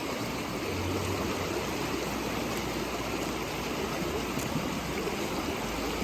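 Storm runoff and a rain-swollen creek rushing in a steady, even torrent.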